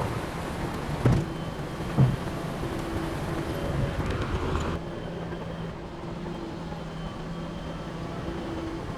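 Heavy diesel earthmoving machinery running steadily with a low hum, with two sharp knocks about a second and two seconds in. A rushing noise over the engine stops suddenly just before the halfway point.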